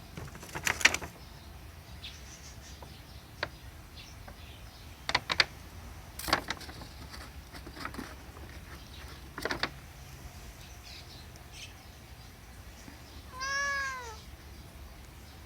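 A few short crinkles of a paper bag, then near the end a single domestic cat's meow that rises and falls in pitch.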